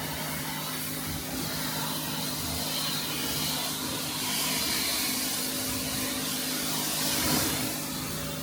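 Pressure washer spraying a steady hiss of water over the hum of its pump, rinsing iron-fallout remover off a car's paint.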